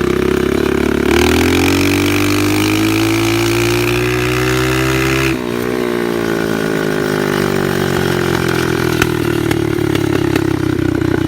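Old Yamaha 125 dirt bike engine running loud through a blown muffler while riding. The revs climb steadily from about a second in, drop sharply about five seconds in, and then hold at a steady lower note.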